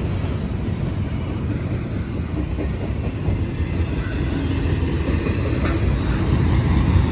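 Train rolling past on the tracks: a steady low rumble of rail cars, growing slightly louder toward the end.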